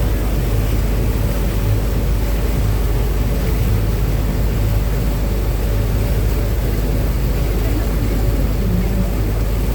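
Uber Boat river ferry running steadily at speed: a loud, unbroken low engine drone mixed with the rush of wind and water on the open deck.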